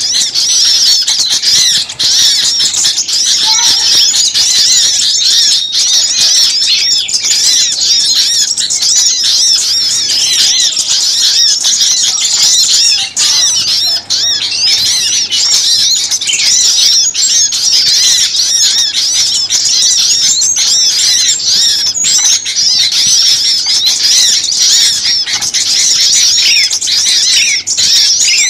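A dense, noisy chorus of many small songbirds chattering and chirping at once, fast high-pitched notes overlapping without a pause: a mixed-species bird-lure recording of the agitated 'ribut' kind.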